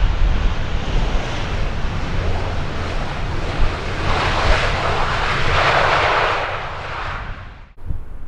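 Jet airliner passing, its engine noise swelling to a peak about four to seven seconds in and fading, over a heavy rumble of wind on the microphone. The sound cuts off abruptly near the end.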